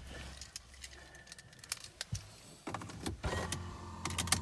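Mercedes E320 with its electrics freshly powered by a new battery: a low steady hum from the car, broken by several sharp clicks.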